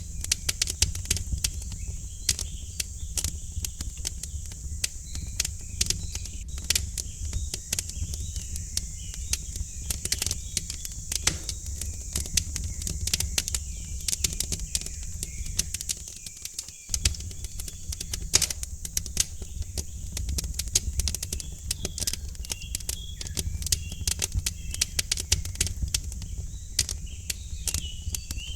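Wood fire crackling in a fireplace, with many irregular sharp crackles over a steady low rumble. Small birds chirp softly in the background, more often near the end.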